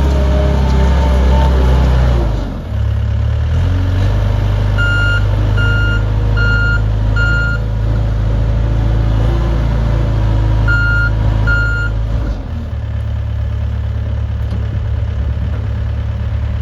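XCMG XC740K mini skid steer loader's engine running under changing load, its pitch dropping about 2.5 s in and shifting again near 12 s, while the reversing alarm gives four short beeps and then two more as the machine backs up.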